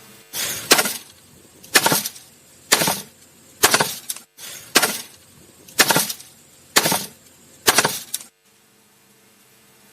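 A series of eight sharp, crashing impacts, about one a second, which stop abruptly.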